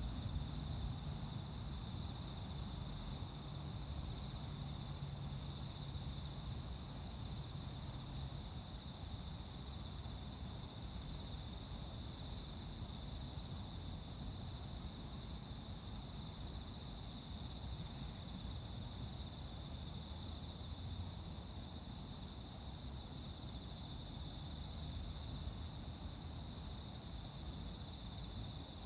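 A chorus of insects singing steadily in two unbroken high-pitched tones, over a low outdoor rumble.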